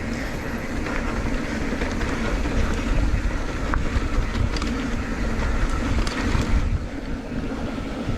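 Motorcycle riding along: the engine running steadily under a low rumble of wind and road noise buffeting the on-bike microphone.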